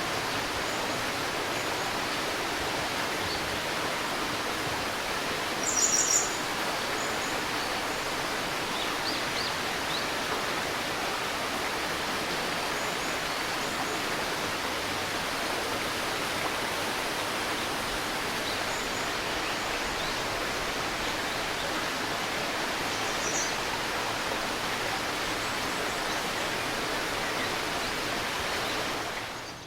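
Steady murmur of a shallow river or stream, with a few short bird chirps over it, the loudest about six seconds in. The water sound dips briefly near the end.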